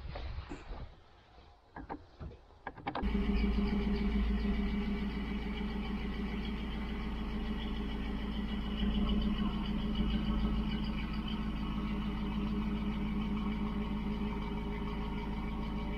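Faint handling clicks and knocks, then about three seconds in a vehicle engine idling steadily comes in abruptly and holds at an even pitch.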